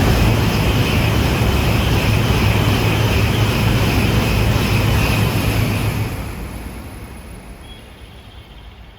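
A Shinkansen train running past along the platform: a loud, steady rushing roar with a low hum for about six seconds, then fading away as the train moves off.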